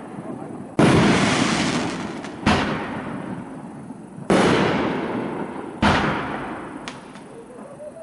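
Iron Man Fireworks IMA123 'Big Bigger Biggest' 12-shot 500-gram cake firing its shells one at a time: four loud booms one and a half to two seconds apart, each echoing and fading away, with a small sharp crack near the end.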